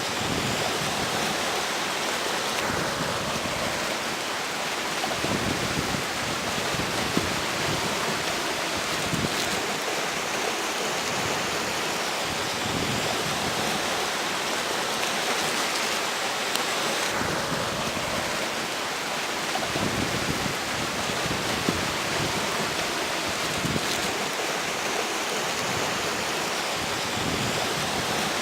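Steady rush of a flowing river with a strong wind blowing over it, swelling slightly now and then.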